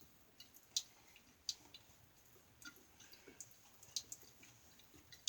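A few faint, scattered clicks and light taps, about one a second, like small objects being set down or handled.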